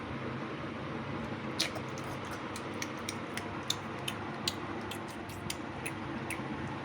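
Light, irregular clicks and taps of small toy pieces being handled and set down, about a dozen starting a second and a half in, over a steady background hiss.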